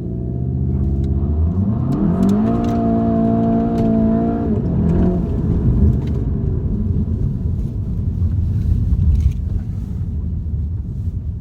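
2019 VW Golf GTI TCR's 2.0-litre turbocharged four-cylinder on a launch control start. The revs climb and are held steady at the launch rpm for about two seconds. About four and a half seconds in the brake is released and the steady note gives way to a rushing engine and exhaust noise as the car accelerates away, fading near the end.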